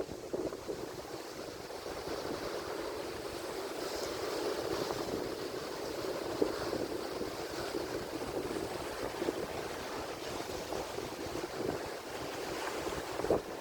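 Atlantic Ocean surf: a continuous wash of breaking waves swelling gently and easing, with some wind rumble on the microphone.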